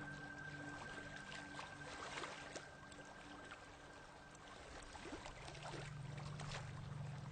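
Small waves washing over a pebble beach, with many short clicks of pebbles rattling in the moving water.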